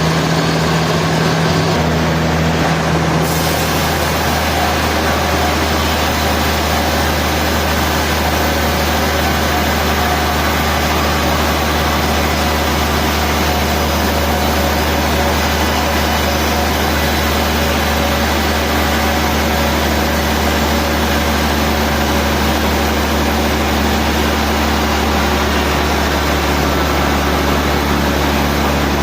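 Sawmill machinery running steadily: a constant low motor hum under a dense mechanical noise, which grows brighter and hissier about three seconds in.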